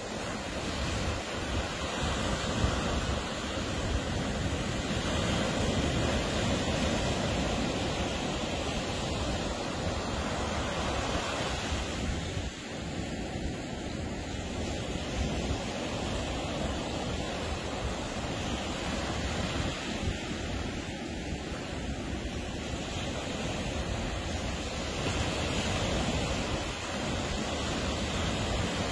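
Ocean surf breaking on a beach, a continuous wash of waves that swells and eases over several seconds, with wind buffeting the microphone.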